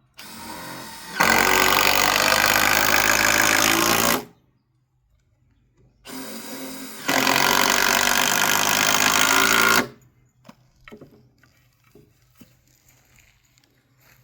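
A power tool run twice, each time for about four seconds. Each run starts softer for about a second, then runs at full power and stops abruptly. A few light knocks and clicks follow near the end.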